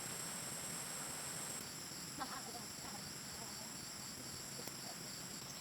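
Insects trilling steadily at a high pitch, with a fine pulsing to the trill, and a few faint knocks about two seconds in.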